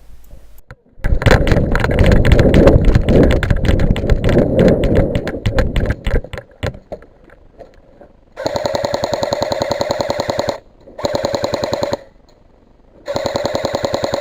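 Airsoft electric rifle firing on full auto: fast, evenly spaced, buzzing rattles in three bursts of about two seconds, one second, and one second-plus, each cut off sharply. They follow about six seconds of loud, dense, irregular clattering.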